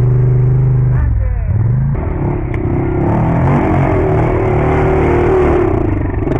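Quad bike engine running loud and steady, dropping in pitch about a second in, then revving up and down unevenly.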